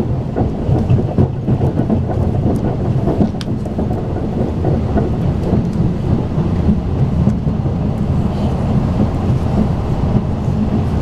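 Steady low rumble of a Talgo passenger car running along the line, heard inside the car: wheels on rails with a few faint ticks over the constant drone.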